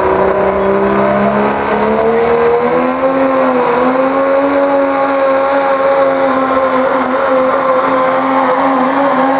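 Diesel pickup truck engine running hard under load while pulling a weight sled. Its pitch climbs for about two seconds, with a high whine rising alongside, then holds steady at high revs.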